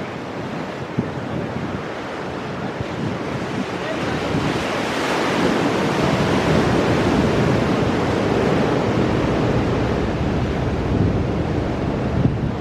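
Ocean surf breaking on rocks: a wave builds about four seconds in and washes through with a deep rush before easing off. Wind buffets the microphone throughout.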